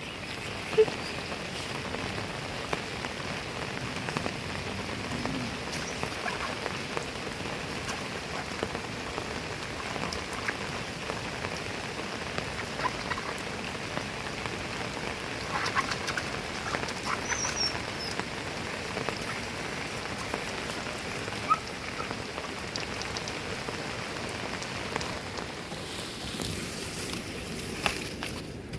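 Heavy rain falling steadily, a dense hiss of drops pattering on surfaces, with a few sharper individual drips or taps standing out.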